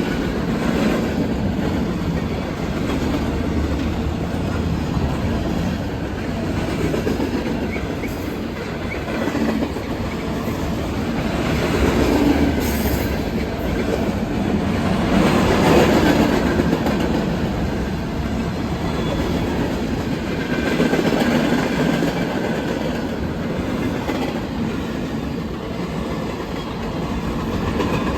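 Train running on rails: steady rumble with clickety-clack of wheels over rail joints, swelling louder a few times.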